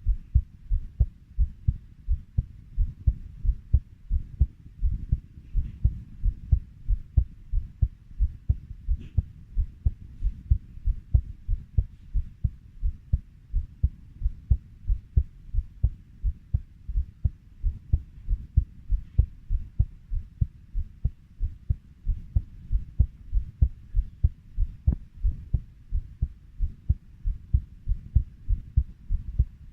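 Heartbeat thudding steadily at about 90 beats a minute, each beat a low double 'lub-dub' thump.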